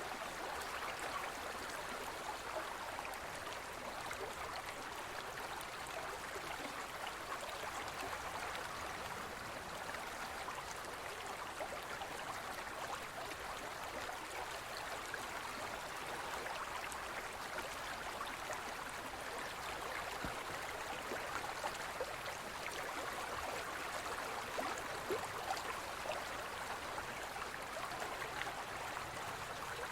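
Forest stream flowing over rocks: a steady rushing and babbling of water with small splashes and gurgles throughout.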